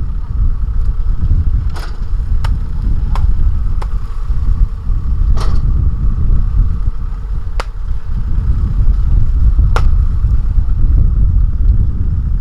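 Diesel engine of farm machinery running with a deep, steady rumble, with about seven sharp clanks scattered through.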